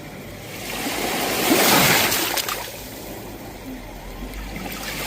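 Sea waves washing onto the shore: one wave swells in and breaks about two seconds in, then draws back, and the next wave starts coming in at the end.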